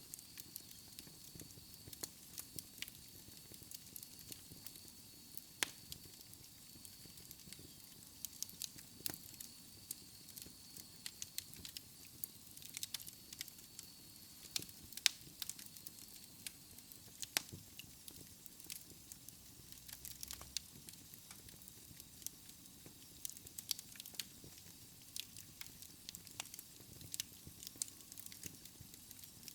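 Wood fire crackling in a fireplace: irregular sharp pops and snaps over a soft hiss of burning.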